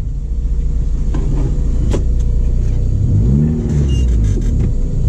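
Car engine idling, revved once about three seconds in: the pitch rises and falls back within about a second.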